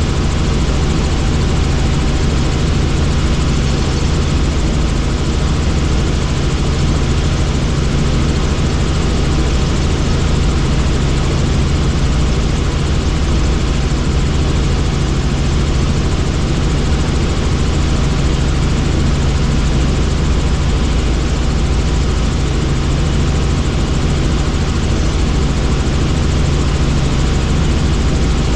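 Helicopter in flight: steady, loud rotor and engine noise with a constant low hum and a few faint steady tones, unchanging throughout.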